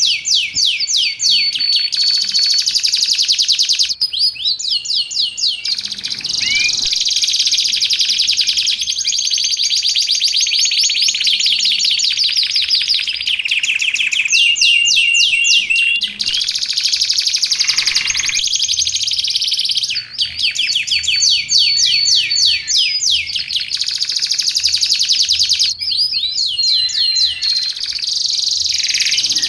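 Domestic canary singing without a break: long runs of fast repeated trills and rolls, with several long held whistles.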